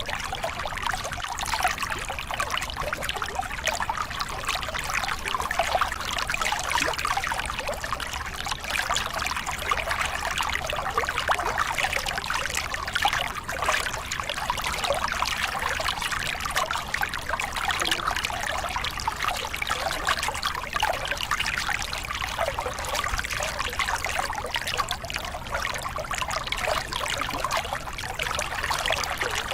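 Small cascade on a forest river: water pouring and splashing over rocks, with the river flowing steadily.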